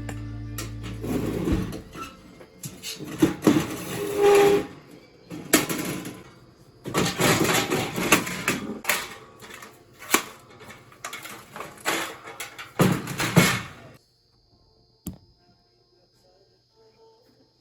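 Background music ending in the first second and a half, then a run of irregular rustling, knocking and clattering from things being handled, which stops about fourteen seconds in.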